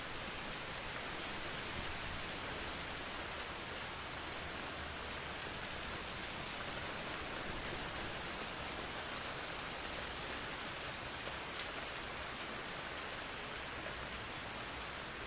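Steady rain falling, an even, unbroken hiss of rain with no thunder in this stretch.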